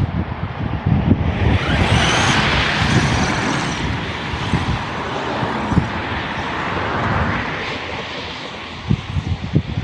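Redcat Shredder 6S electric RC monster truck running under power, its motor whine rising about two seconds in and then holding steady, with scattered low knocks.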